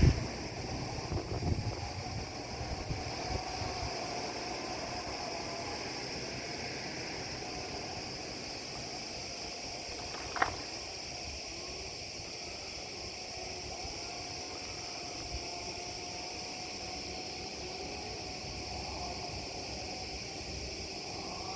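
Chainsaws running in the distance, their engine note wavering up and down as they rev and bog in cuts, over steady outdoor background noise; a single short sharp sound about ten seconds in.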